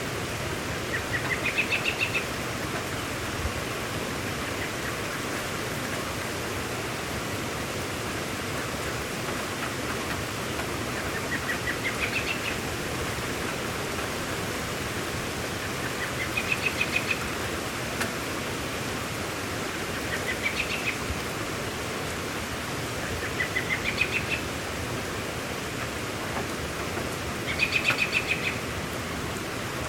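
Steady hiss of rain, with a bird calling six times at intervals, each call a short rising run of rapid notes about a second long.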